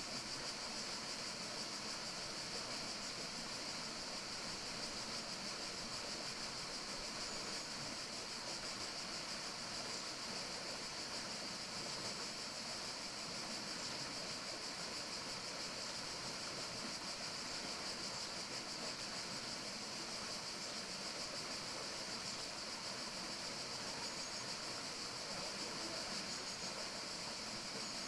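Steady forest ambience: an even, unbroken hiss with a steady high-pitched band over it and a few faint high chirps.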